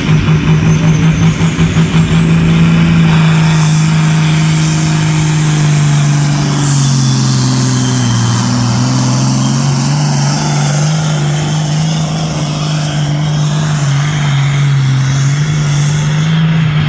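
A pulling tractor's engine running hard at high revs under load, pulsing at first and then holding a steady loud note. Partway through a lower note sags in pitch and climbs back.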